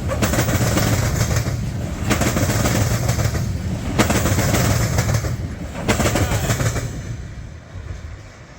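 Freight train cars rolling past, the wheels clattering and banging in repeated surges as they cross the rail diamond. The noise fades out near the end as the last cars pass.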